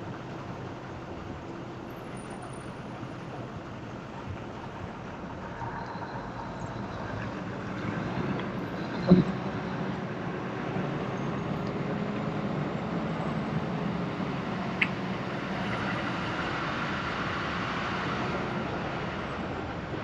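Truck engine running steadily under way, its pitch rising a little partway through, with a sharp knock about nine seconds in.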